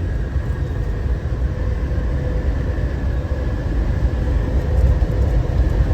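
Steady road and engine noise inside a moving car's cabin: an even low rumble with a faint steady hum.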